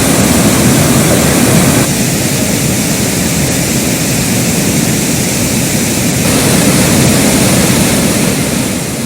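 Floodwater of a river in spate rushing in a steady loud roar, with the sound changing abruptly about two seconds in and again about six seconds in.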